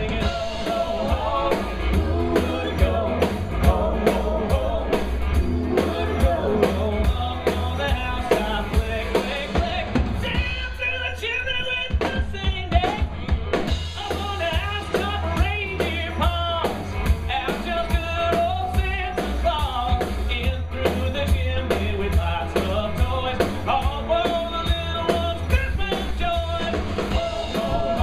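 Live rock band playing: a singer over drum kit and bass with a steady beat. About ten seconds in, the bass and drums drop out for roughly three seconds, leaving the voice and higher instruments, then the full band comes back in.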